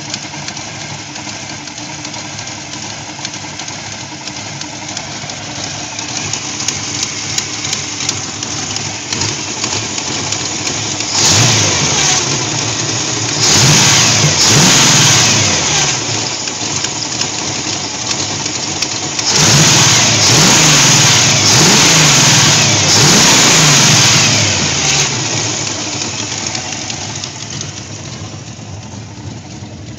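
Carbureted V8 with a four-barrel carburetor idling and being revved by hand at the carburetor throttle linkage. It blips a little over a third of the way in, holds a longer rev shortly after, then gives a run of several quick revs rising and falling past the middle before settling back to idle.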